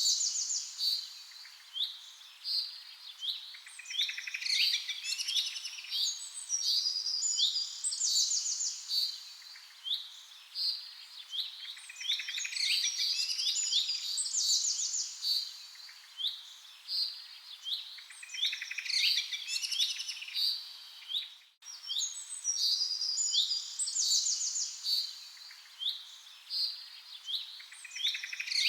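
Several small songbirds chirping and trilling together in a dense, overlapping chorus of high, quick notes. There is a brief dropout about three-quarters of the way through.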